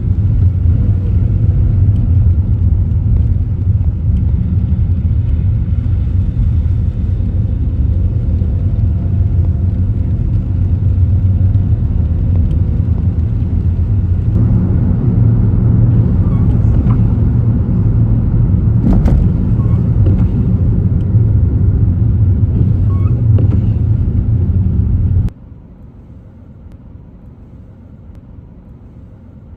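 Car driving, heard as a loud, steady low rumble of road and engine noise. Near the end it drops abruptly to a much quieter hum.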